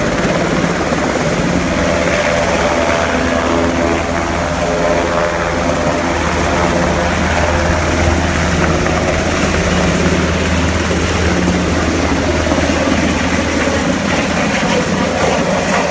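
A UH-60 Black Hawk helicopter running at takeoff power: the main rotor and its twin turboshaft engines give a steady, loud drone with a layered hum.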